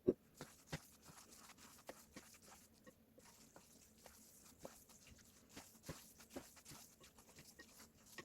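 Close-up chewing and mouth sounds of someone eating cold bibim instant noodles: soft irregular smacks and small wet clicks, with one louder tap right at the start.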